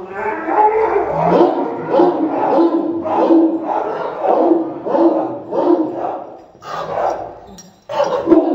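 A string of short, loud voiced calls, repeating about twice a second, with a brief break near the end.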